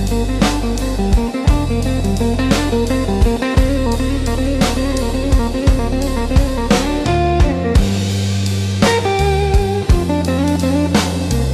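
Instrumental slow blues: electric guitar playing melodic lines over bass and a drum kit beat.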